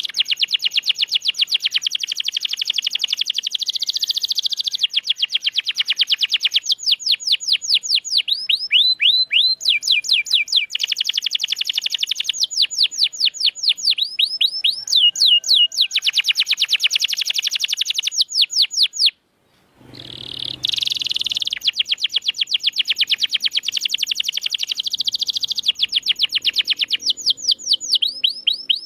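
Domestic canary singing a long song of rapid rolls: trains of repeated high notes, many sliding quickly down in pitch. The song breaks off briefly about two-thirds of the way through, then resumes.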